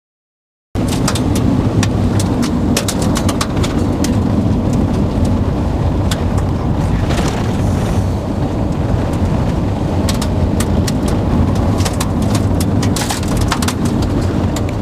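Heavy rain in strong gusting wind: a steady low wind rumble on the microphone with many sharp taps of raindrops striking nearby surfaces. It cuts in suddenly under a second in.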